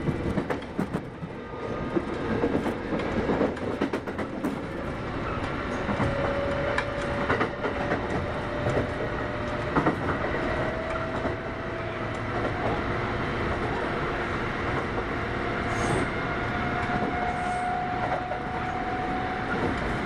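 Kintetsu 8810 series electric train heard from inside the car, running on the rails. Its motor whine climbs steadily in pitch as the train gathers speed, over wheel-and-rail rumble, with sharp clicks from rail joints mostly in the first half.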